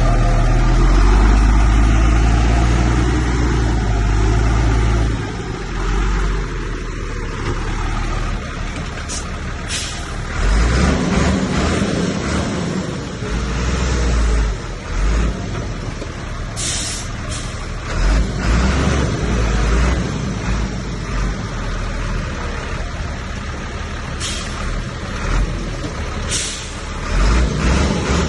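Heavy diesel engine of a Komatsu crawler bulldozer working under varying load, its low running sound swelling and easing, with several short hissing bursts along the way.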